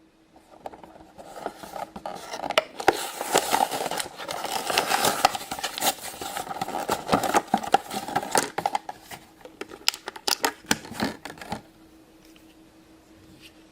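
Plastic toy packaging handled by hand: dense crinkling, scratching and clicking for about ten seconds, stopping abruptly near the end.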